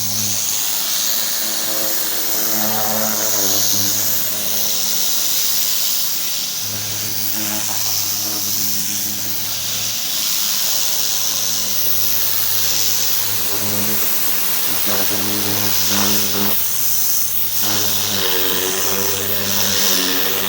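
Pressure washer running: the steady hiss of the high-pressure water spray over the hum of its engine.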